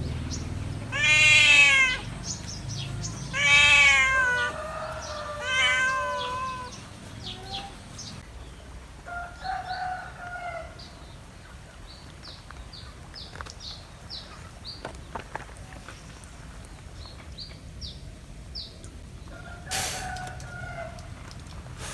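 An animal calling loudly three times in the first seven seconds, each call a pitched, arching cry of about a second, the third longer, with fainter calls of the same kind twice later. Small birds chirp throughout.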